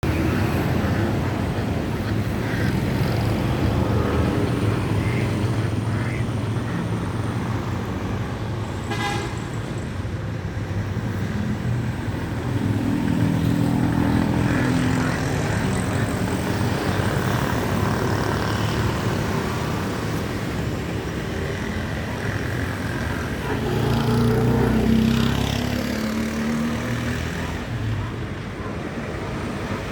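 Steady road traffic running, with a low rumble throughout. Twice, a louder vehicle engine passes, about halfway through and again near the end.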